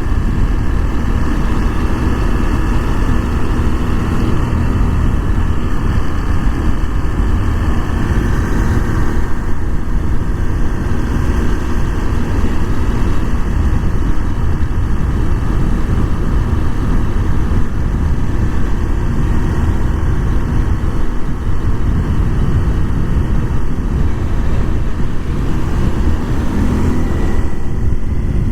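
Honda Super Cub 125's single-cylinder engine running steadily while the bike is ridden, with heavy wind noise over the microphone.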